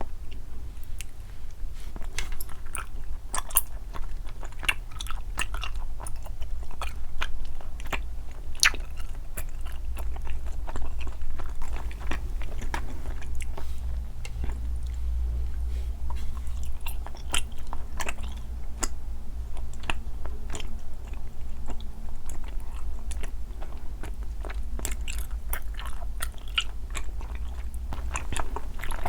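Close-miked eating sounds: someone biting and chewing sweets, with frequent crisp crunches and clicks, over a low steady hum.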